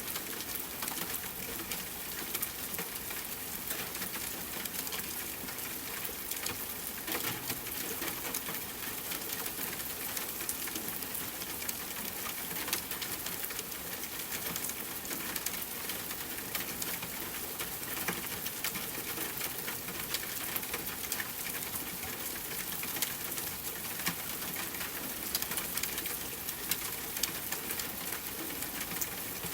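Steady rain falling, with many small scattered drop ticks.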